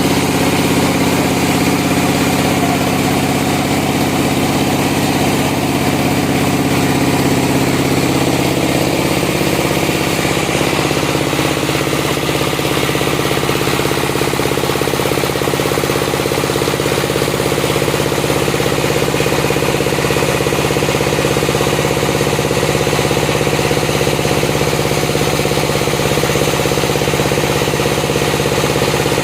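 Sawmill's engine running steadily, its note shifting about ten seconds in and then holding.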